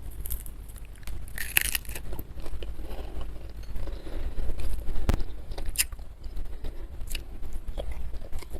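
Close-miked chewing and crunching of salted tilapia, with irregular crisp crackles and mouth clicks and one sharp click about five seconds in.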